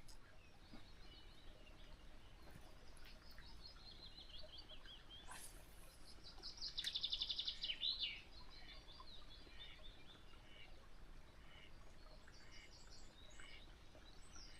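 Wild birds singing and chirping, faint, with one louder rapid trill of quickly repeated notes about seven seconds in.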